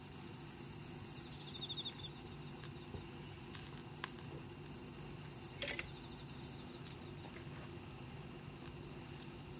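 Insects, crickets by their sound, chirping in a steady pulsing rhythm, with high trills starting and stopping every few seconds. A few sharp pops from the burning campfire, the clearest a little past the middle.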